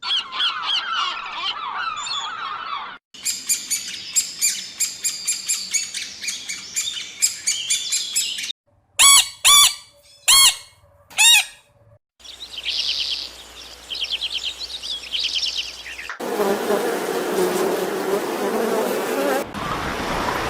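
Birds chirping and calling in several short clips cut together: busy high chirping, then about nine seconds in four loud calls that rise and fall, then quick trills. In the last few seconds the calls give way to a rough, even noise.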